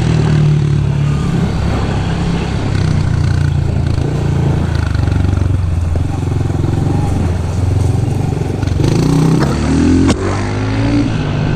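Small off-road vehicle engine running steadily under way, revving up shortly before a single sharp knock about ten seconds in.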